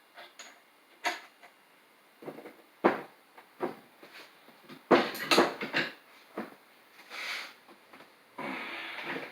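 Metal bench-vise parts being handled and knocked together: a string of sharp clanks and knocks, thickest about five seconds in, with short scraping slides near the end.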